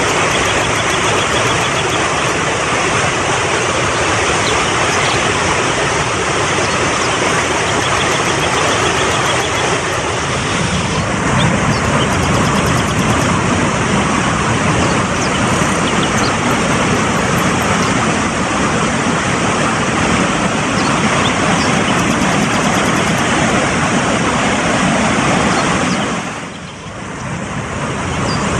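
Fast-flowing mountain stream, a steady rush of water. The sound dips briefly and comes back near the end.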